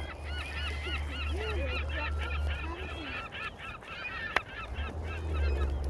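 A flock of geese honking, many overlapping calls one after another, over a low steady rumble. A single sharp click cuts through about four and a half seconds in.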